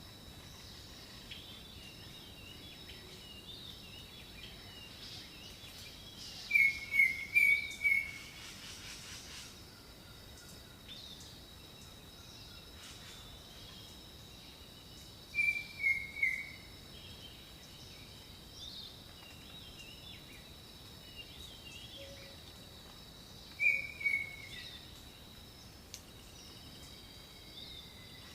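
Jungle ambience: a bird calls three times, about every eight seconds, each call a quick run of three or four falling notes, while other birds chirp faintly and insects keep up a steady high drone.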